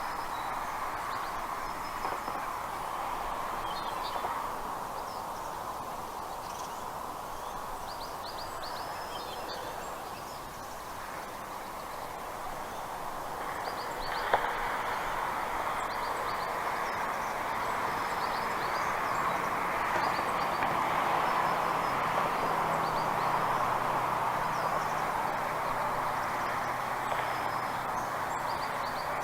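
Outdoor ambience: a steady rushing noise with scattered short, high bird chirps. A low hum joins it about halfway through.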